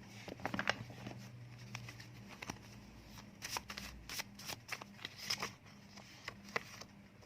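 Deck of paper word cards being shuffled and handled: a string of quick snaps and rustles, coming in clusters.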